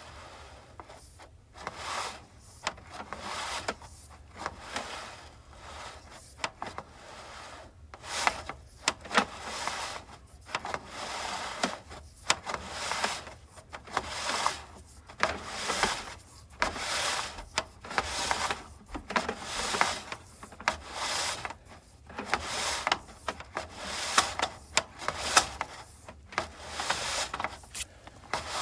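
Sewer inspection camera's push cable being fed by hand into the cleanout: repeated rubbing, rasping strokes, roughly one a second, as the rod slides through the hands and the pipe fitting.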